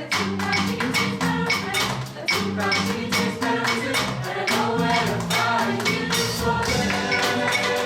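Chamber choir singing an upbeat pop arrangement over a fast, steady percussion beat of sharp hand-played strikes.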